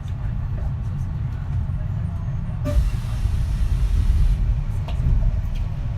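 Kintetsu 3220 series train running, heard from inside the car: a steady low rumble of wheels and running gear. About halfway through, a click is followed by a sudden burst of hiss that lasts under two seconds.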